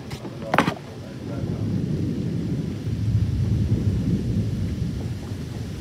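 Thunder rumbling over steady rain: a deep roll that builds about a second and a half in, is loudest midway and eases off toward the end. Two short sharp sounds come in the first second.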